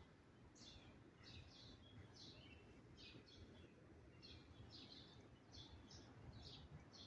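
Faint birds chirping: short, high, slightly falling notes repeated about one or two times a second, over a low steady background rumble.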